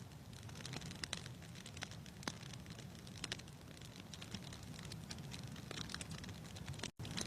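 Fireplace wood fire crackling: scattered snaps and pops over a low steady rumble, cutting out for a split second near the end.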